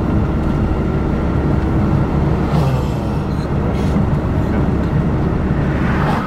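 Steady low road and engine rumble heard inside a moving car's cabin, with a few brief louder noises around the middle and near the end.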